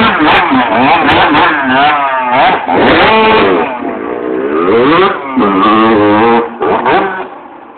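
Dirt bike engines revving, their pitch rising and falling over and over as the throttle opens and closes, dying down near the end.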